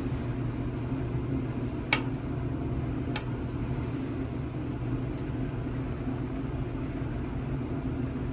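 A steady low machine hum, with two faint clicks about two and three seconds in.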